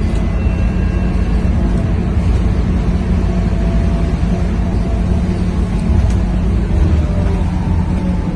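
Scania K230UB city bus's diesel engine running steadily under way with a heavy low drone. It is driven on full throttle for a kickdown, though no gear change stands out.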